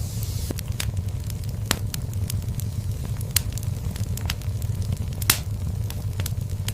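Fire burning in a fireplace: irregular sharp crackles and pops over a low steady rumble of the flames, with one louder pop a little after five seconds in.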